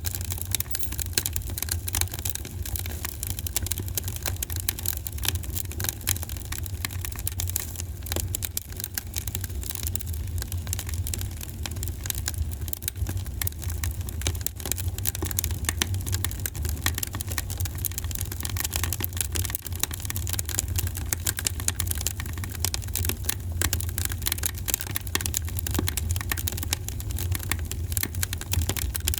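Wood fire in a fireplace crackling, with many small pops and snaps coming thick and irregular over a steady low rumble.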